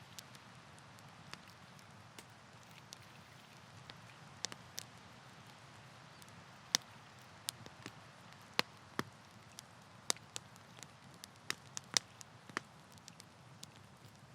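Wood campfire crackling, with irregular sharp pops and snaps over a soft low background; the pops come more often in the second half.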